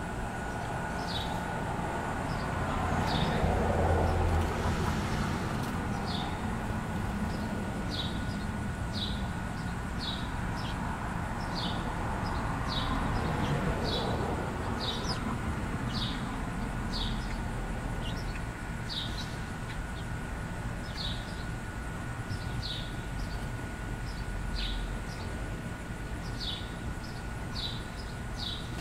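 A small bird calling with short, falling chirps, about one a second. Under it runs a steady low rumble of distant traffic, and a passing vehicle or aircraft swells loudest about four seconds in.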